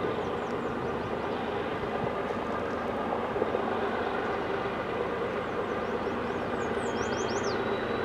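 Steady low rumble of an approaching GE diesel-hauled freight train, led by an ES44DC with a C44-9W behind it, still far down the line. Near the end a bird gives a few quick falling chirps.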